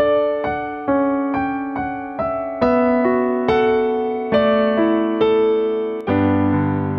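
Solo piano playing a slow broken-chord introduction, about two notes a second, each note ringing and fading; deeper bass notes come in near the end.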